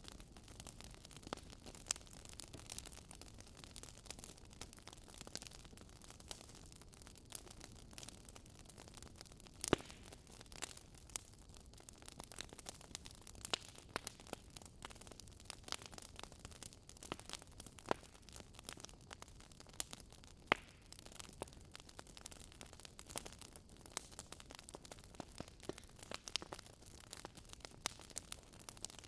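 Campfire burning, wood crackling and popping with irregular sharp snaps, a few louder pops along the way, over a faint low rumble of the flames.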